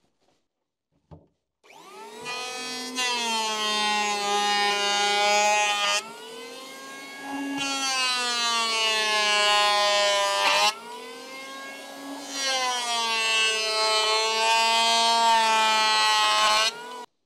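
A handheld electric power tool cutting plane-tree wood to rough out a peel blank. Its motor whines up to speed about two seconds in and runs hard against the wood. The whine drops in loudness and shifts pitch twice, about six and eleven seconds in, then cuts off suddenly near the end.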